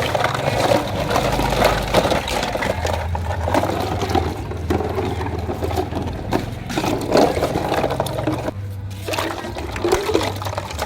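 Water splashing and sloshing around a toy truck, with a steady low motor hum beneath that shifts in level now and then.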